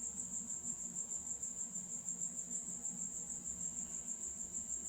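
Crickets chirring in a steady, high-pitched, rapidly pulsing trill, with a faint low hum beneath.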